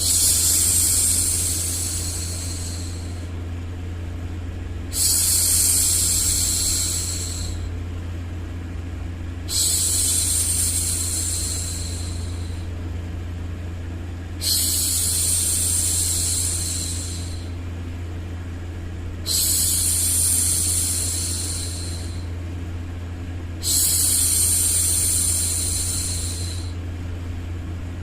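A woman's voice shushing: a long "shhh" about every five seconds, six times, each starting sharply and fading away over about three seconds, over a steady low hum.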